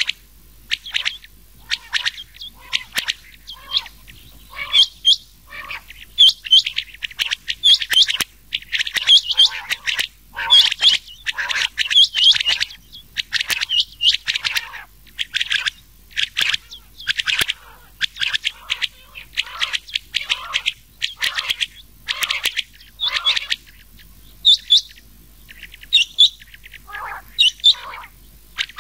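Rain quail calls mixed with calls of another quail, as recorded on a quail-hunting lure track: short, sharp, high notes repeated rapidly in quick clusters.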